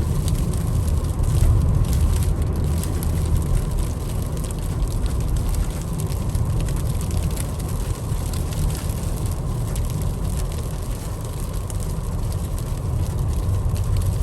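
Steady low rumble inside the cabin of a 2021 Ford Explorer ST driving through fresh, untracked snow: tyre and road noise with the engine underneath, plus a faint hiss.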